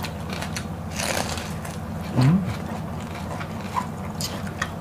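Close-miked chewing of raw vegetables such as cabbage: scattered crisp crunches and wet mouth clicks, with a short hummed "mm" about two seconds in.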